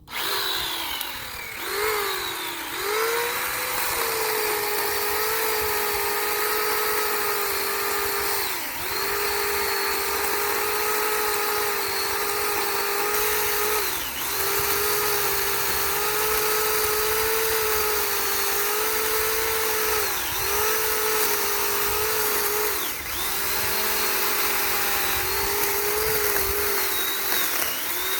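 Sun Joe 12-inch electric chainsaw starting up with a rising whine, then running at a steady high whine while cutting hedge-tree branches. The pitch dips briefly about six times as the chain bites into the wood, then recovers.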